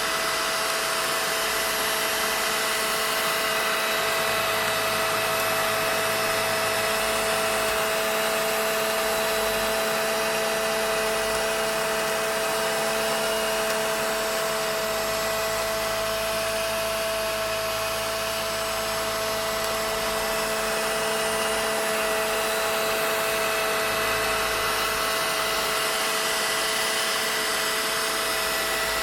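Vacuum cleaner running steadily: an unbroken whine of motor tones over a rush of air.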